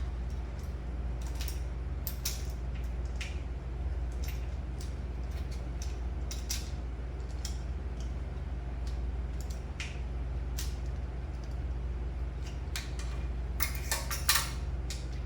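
Scattered light metallic clicks and clinks from working a valve spring compressor to pull the valve keepers, with a quick cluster of sharper clicks near the end, over a steady low hum.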